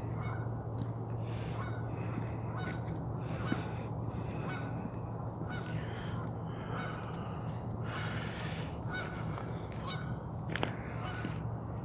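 Geese honking, many short calls repeated over and over, over a steady low rumble.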